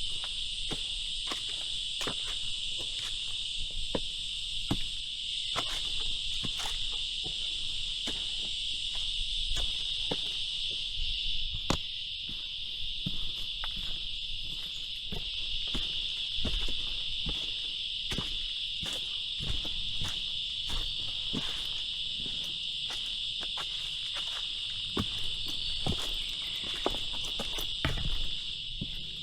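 Dense, steady chorus of jungle insects, a shrill high buzz with a fainter, higher band above it. Frequent short knocks of footsteps from someone climbing the trail run underneath.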